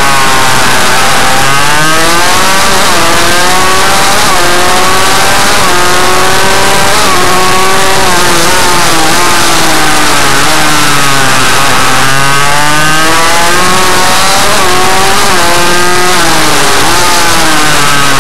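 A small motorcycle engine running loud, its pitch climbing and dropping again and again as the rider accelerates, shifts and backs off.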